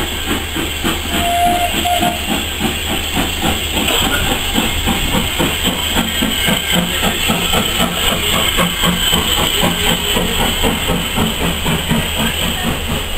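Steam-hauled heritage train carriage moving slowly, heard from inside: steady hiss and rumble with a quick, even rhythmic pulse. A short two-part whistle sounds about a second in.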